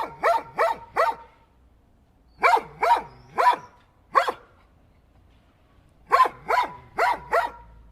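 A dog barking in three quick bursts of about four barks each, with short pauses between the bursts.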